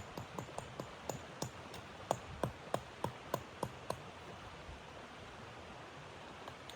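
A quick, even series of short crunches or clicks, about three a second, over a steady hiss; they grow louder in the middle and stop about four seconds in.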